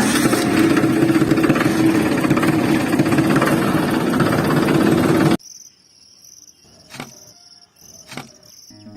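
A small motor running with a steady hum and a noisy rattle, cut off abruptly about five seconds in. After that, cricket-like chirping goes on quietly, with two faint clicks.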